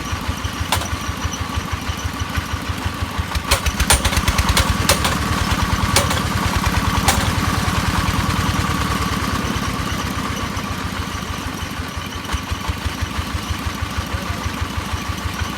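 Engine-driven hammer drilling machine running steadily with an even, fast thumping beat. A few sharp clicks sound between about three and seven seconds in.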